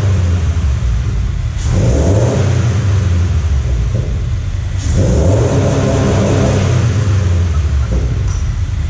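Subaru BRZ's flat-four engine running through a newly fitted JDL exhaust header. It is revved up and held twice, dropping back toward idle between.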